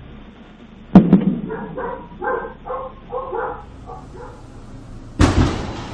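A single sudden loud boom about a second in, one of the unexplained sky booms heard across Alabama. It is followed by a dog barking repeatedly, and near the end comes another loud rumbling burst.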